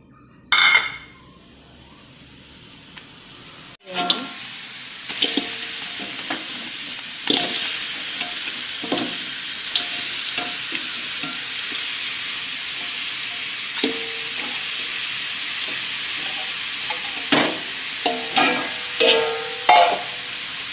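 Lemongrass, galangal and leaves frying in oil in an aluminium wok, with raw chicken pieces added: a steady sizzle with scattered knocks and scrapes against the wok, several louder ones near the end.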